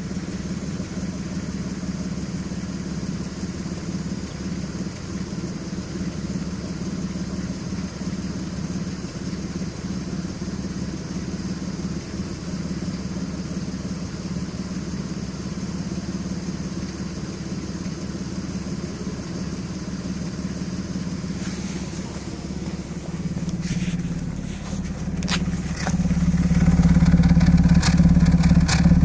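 Audi A6 C5 2.7 biturbo V6 engine running steadily at idle, with a misfire on bank 2 (driver's side) that new coils and plugs, swapped coil packs and a compression check have not cured. A few sharp clicks come in after about 21 seconds, and the engine gets clearly louder near the end.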